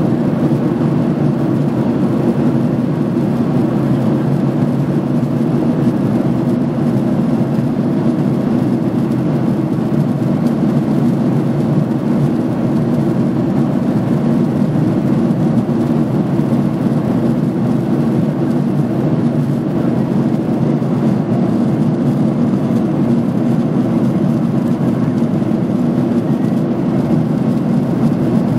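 Steady low drone of a jet airliner's engines and rushing air, heard from inside the passenger cabin in flight, unchanging throughout.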